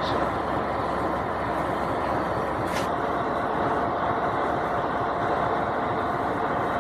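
Passenger train running past, a steady rolling rumble and rattle of the cars, with a short hiss about three seconds in.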